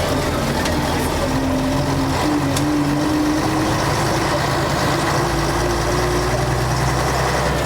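Engine of a 1966 Scania Vabis BF56 bus running under way, with a whine that rises slowly in pitch over several seconds as the bus gathers speed.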